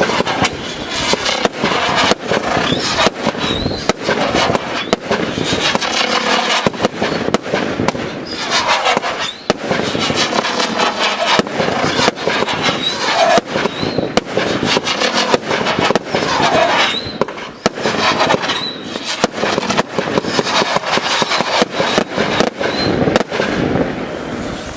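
Coco 50-shot barrage firework firing, a rapid string of shots and bursts with rising and falling whistles from its spinning tails among them.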